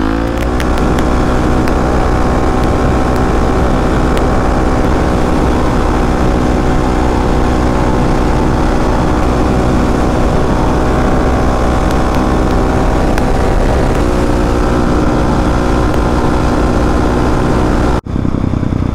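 Dirt bike engine running at a steady cruising speed while being ridden, with wind noise on the microphone. The engine note shifts slightly about three-quarters of the way through, and the sound cuts out abruptly for a moment near the end.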